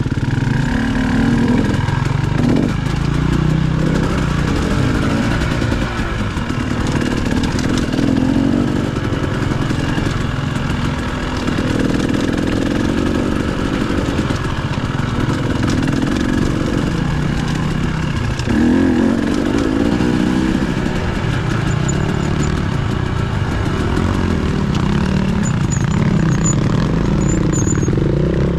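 Dirt bike engine running while being ridden, its pitch rising and falling every few seconds with the throttle.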